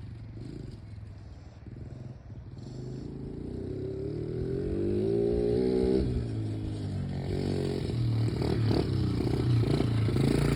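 Dirt bike engine running, its pitch climbing for a few seconds and getting louder, dropping about six seconds in, then running on louder toward the end.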